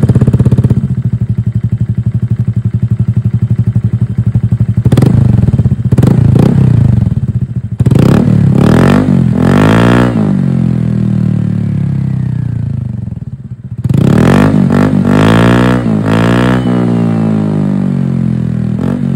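Motorcycle engine idling through an Akrapovic-style universal slip-on muffler with no silencer insert, revved several times: short blips about five and six seconds in, then longer revs that rise and fall around eight to ten seconds and again around fifteen to sixteen seconds, settling back to idle between them. The exhaust note is very loud and crisp.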